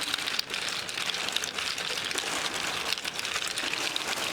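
A string of plastic bottle caps shaken and swirled inside a plastic bag: a continuous rain-like patter of small clicks over crinkly plastic rustle, a homemade percussion effect meant to evoke the rainforest.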